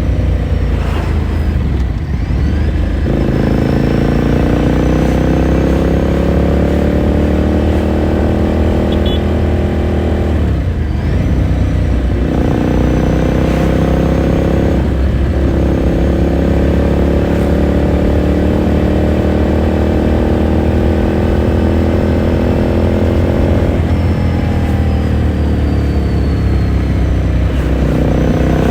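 The 2018 Ducati Scrambler Sixty2's air-cooled L-twin heard on the move through its exhaust, pulling up through the gears. The engine note climbs steadily and breaks off briefly at gear changes about three, eleven and fifteen seconds in, then drops in pitch about three-quarters of the way through as the rider eases off or shifts up.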